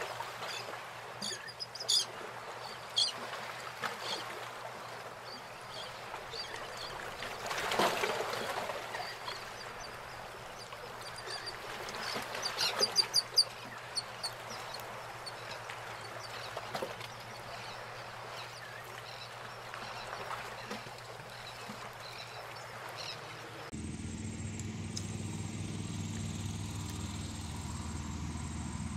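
Outdoor pond ambience with scattered short bird calls, including a quick run of sharp calls about twelve seconds in. A little before the end it switches abruptly to a steady low rumble.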